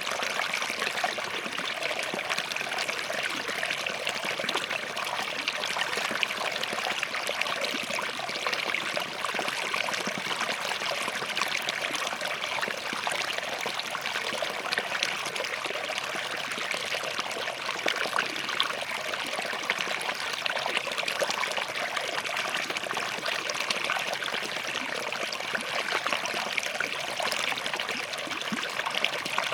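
Small forest stream running steadily over and between rocks, a continuous trickling, splashing flow.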